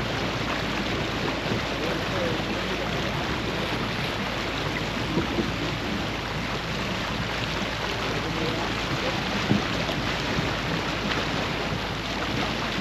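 Steady rushing noise of wind and water on a sailboat under way, with faint voices under it.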